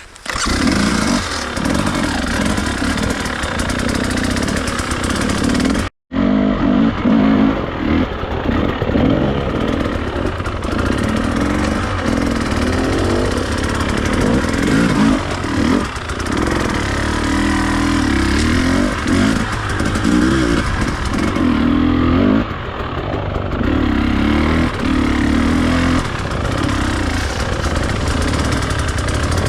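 Enduro dirt bike engine running under load and revving up and down as it is ridden off-road, cutting out for an instant about six seconds in.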